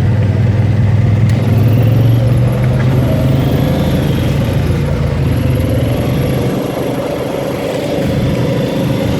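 ATV engine running steadily while riding, its note easing off a little about two and a half seconds in.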